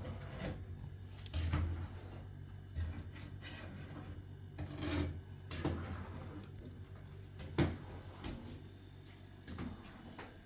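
A series of irregular knocks and scrapes, about one every second or so, over a steady low hum.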